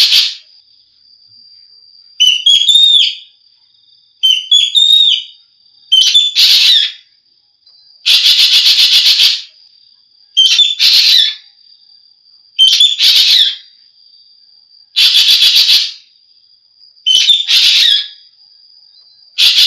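Asian glossy starling (jovin) calling over and over: loud, harsh, hissing bursts about every two seconds, with short whistled notes among the first few. A thin, steady high tone runs beneath the calls.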